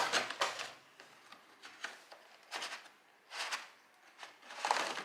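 Short rustling and scraping handling noises, four or five separate bursts, as a replacement engine air filter is picked up and handled.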